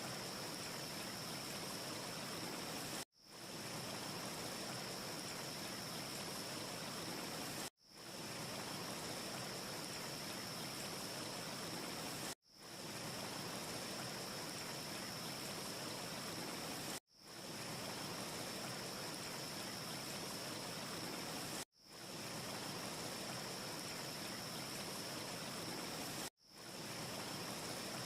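Steady, even rushing hiss of an ambience track, with a thin high tone held steady within it. It drops out sharply about every four and a half seconds and swells back in, six times: a short sound loop restarting. No fire crackles stand out.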